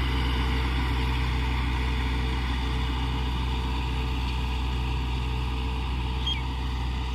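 Mahindra tractor's diesel engine running at a steady speed with a constant low hum.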